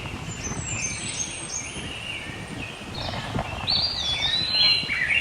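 Birds chirping: short, repeated rising and falling calls, with a denser, louder burst of calls from about three seconds in.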